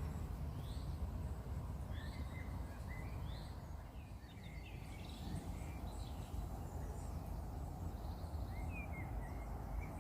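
Small birds singing and chirping, many short rising and falling calls throughout, over a steady low rumble.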